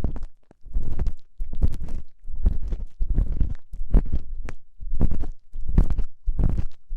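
An ear pick scraping inside a binaural microphone's ear, ASMR ear-cleaning style. It makes about eight slow, rough scratching strokes, one a little under every second, each heavy in the low end.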